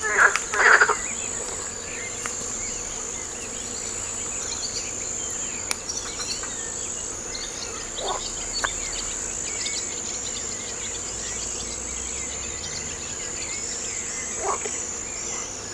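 Steady high-pitched chorus of crickets or other insects, with frogs croaking over it: a quick run of loud croaks in the first second, then single croaks about halfway through and near the end.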